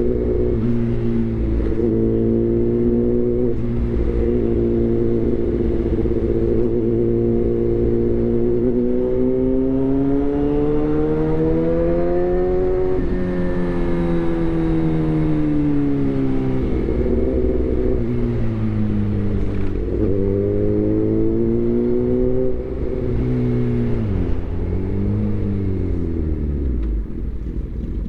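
Suzuki GSX-R1000 inline-four engine through a replica SC-Project aftermarket exhaust. It runs steadily, then its pitch rises in a long climb and falls away, followed by several quick drops and recoveries in revs near the end.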